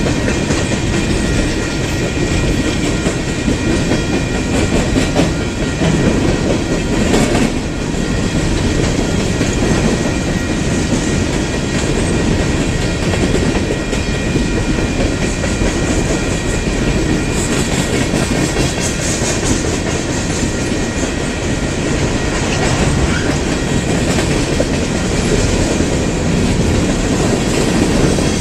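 Union Pacific freight train's cars rolling steadily past, their wheels clacking over the rail joints.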